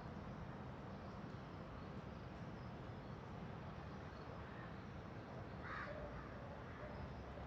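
A bird calls once, briefly, about three-quarters of the way through, over a steady low background hum of outdoor noise.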